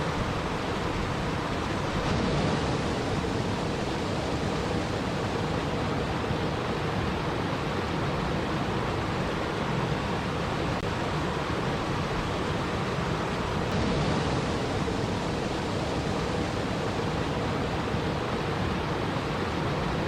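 Steady rushing water ambience, an even wash of noise with slight swells a couple of seconds in and again around fourteen seconds in.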